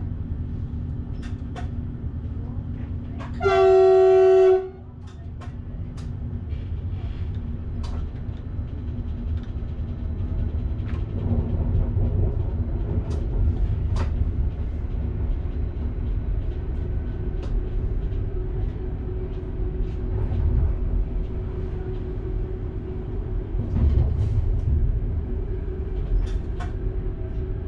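Train horn sounding one blast of just over a second, about three seconds in. Around it the train runs on with a steady low running noise and scattered clicks from the track.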